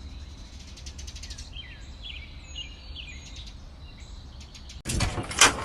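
Small birds chirping, with short rising and falling calls, over a faint steady high whine. Near the end a sudden loud clatter of knocks and rattles takes over.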